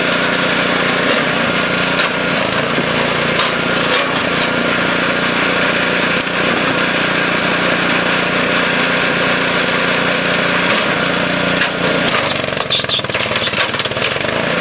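Flywheel wood splitter's small gas engine running steadily, with occasional sharp knocks and cracks as logs split and pieces land. Near the end the sound wavers as the ram stalls in a log until the engine brings the flywheels back up to speed.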